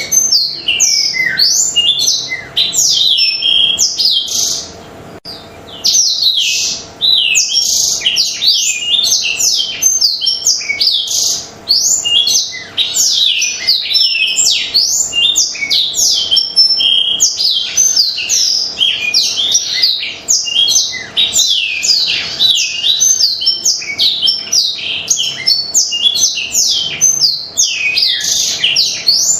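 Black-throated canary (blackthroat) singing a long, rapid, continuous song of high twittering, sliding notes, with one short break about five seconds in.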